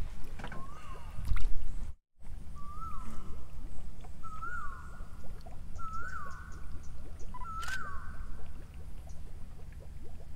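A bird calling outdoors, repeating a short note that rises and falls, five times about a second and a half apart, over a steady low rumble of wind and water. The sound cuts out for an instant about two seconds in.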